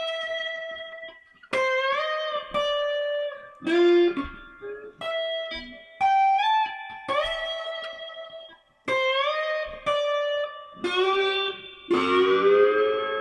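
Slide guitar playing a melodic phrase of single notes, many gliding up into pitch with the slide. It ends near the end on several strings ringing together and fading out.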